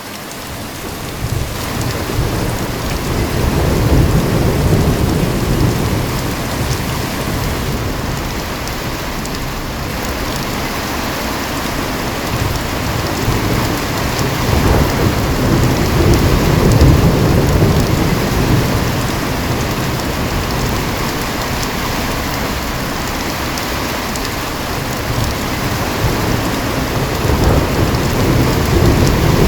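Heavy rain falling steadily, with low rolling thunder that swells up and fades three times: about 4 seconds in, midway through, and near the end.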